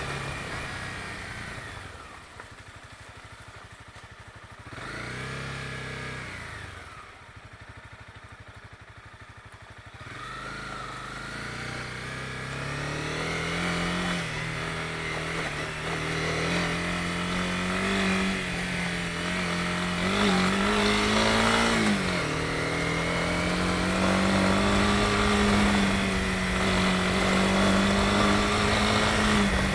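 Honda CB250R's single-cylinder four-stroke engine sinking to a low, quiet idle with one short throttle blip, then pulling away, its pitch and loudness climbing steadily, with a brief rev-and-drop partway through.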